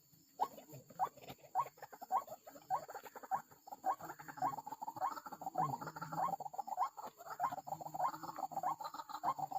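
White-breasted waterhen (ruak-ruak) calling: short rising notes repeated about every half second, building from about four seconds in into a denser, overlapping run of calls.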